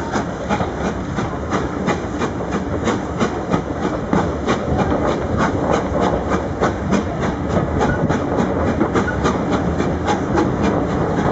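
Preserved passenger train running slowly, heard from an open carriage window: a steady rumble with a rapid, even beat about four times a second.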